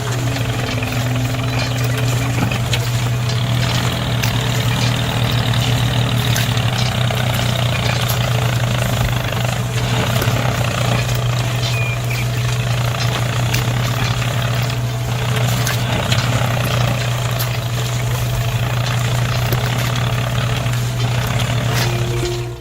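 A motor running steadily, with a strong unchanging low hum and an even whirring noise over it.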